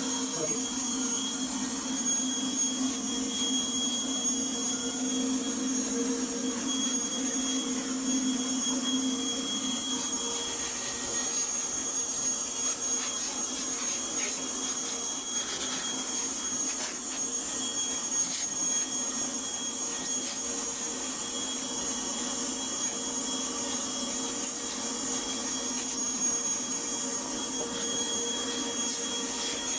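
Everything Bee Vac bee vacuum running steadily with a constant motor whine while it sucks up honey bees from the colony.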